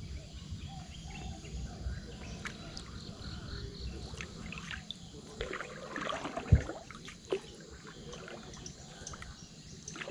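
Handling and water noise while pulling up a set fishing line, with scattered small clicks and two sharp knocks about six and a half and seven seconds in, the first the loudest. Birds or insects chirp in the background.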